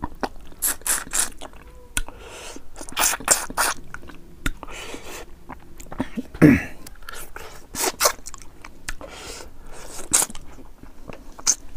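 A person chewing mouthfuls of rice and boiled fish eaten by hand, close to the mouth: irregular wet smacks and crunchy bites. One louder low sound comes about six and a half seconds in.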